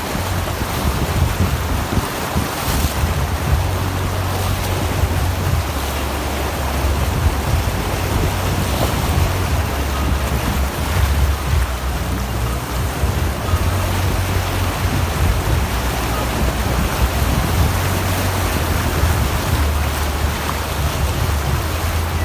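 Vehicle driving along a flooded road: a steady rushing of water and road noise, with a deep rumble of wind buffeting the microphone.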